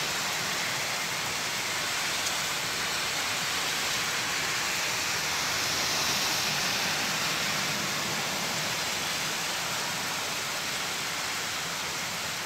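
Heavy rain pouring down on a road and paved ground: a dense, steady hiss.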